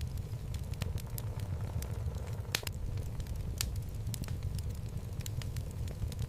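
Wood logs burning in a home fireplace: a steady low flame noise with scattered sharp crackles and pops, one pop louder than the rest about two and a half seconds in.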